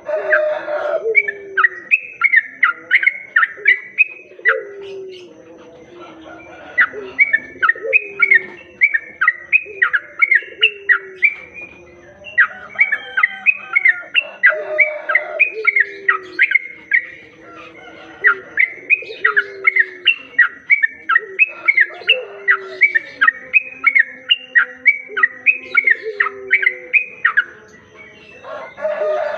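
Yellow-vented bulbul (trucukan) singing: phrases of rapid, bubbly falling chirps several seconds long with short pauses between. Lower falling notes repeat about once a second underneath.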